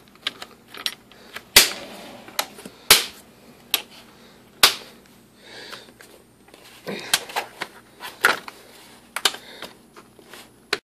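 Plastic engine airbox being refitted: irregular sharp clicks and knocks as the housing is seated and its clips are snapped back into place.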